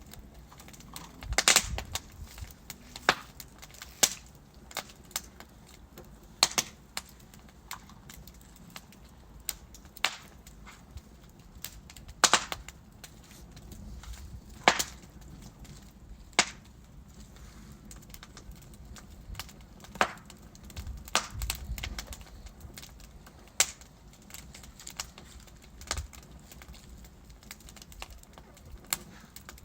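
Wood fire in a fireplace crackling: irregular sharp pops and snaps of burning logs every second or so, a few louder ones, over a low steady rumble of the flames.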